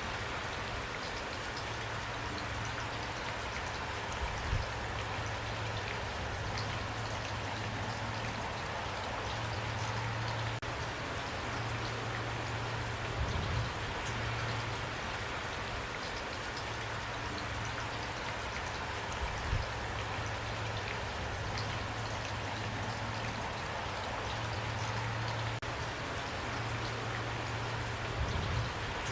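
Steady rain, an even hiss of many drops falling on a surface, with a low hum underneath and a few louder single drops or knocks now and then.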